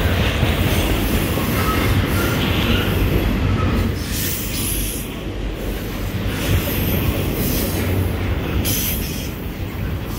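Double-stack intermodal container train rolling past: a steady rumble of steel wheels on rail, with a few faint, brief wheel squeals in the first few seconds.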